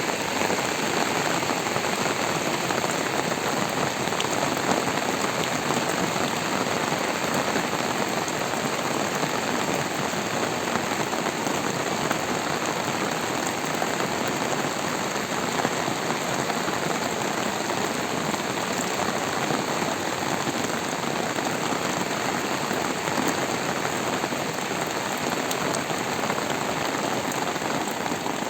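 Steady rain falling and pattering on surfaces, a dense even hiss flecked with small drop impacts.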